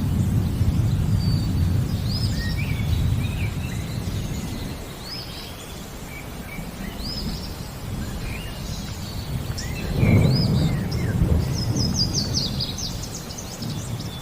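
Thunder rumbling low and fading away over the first few seconds, with another roll of thunder about ten seconds in. Over it birds sing: short arched chirps repeat every couple of seconds, with a quick run of chirps near the end, over a faint steady hiss of rain.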